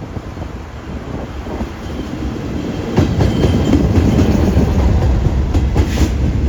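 Freight train rolling past close by: a low rumble that grows louder and jumps up about three seconds in, with the clack of wheels running over rail joints.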